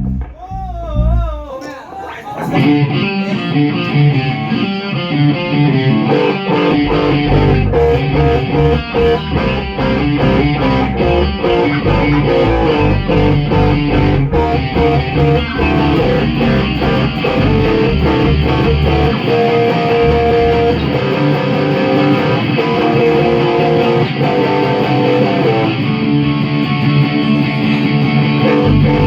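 A band rehearsing a song with electric guitars: a single wavering held note at first, then the full band comes in about two and a half seconds in and plays on steadily.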